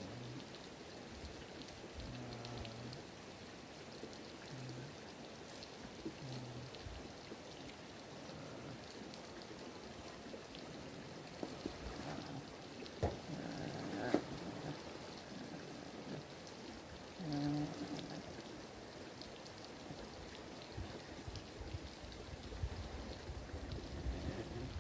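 A sleeping goat makes several short, low grunts, most of them in the first few seconds and one more later, over a steady soft hiss.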